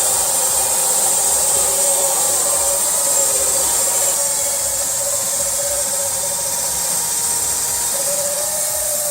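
Bandsaw running and cutting wood: a steady whine that wavers a little, over a loud hiss from the blade.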